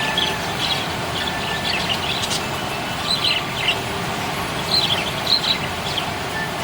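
Budgerigars chirping: quick high chirps in several short clusters, over a steady background hiss.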